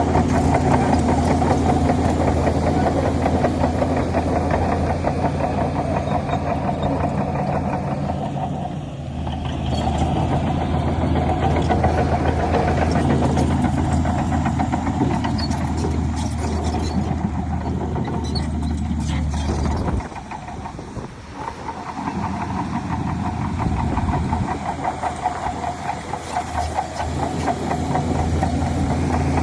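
Heavy diesel engine of earthmoving machinery running steadily at a low pitch. It dips briefly about nine seconds in, then drops suddenly about twenty seconds in and builds back up over the next few seconds.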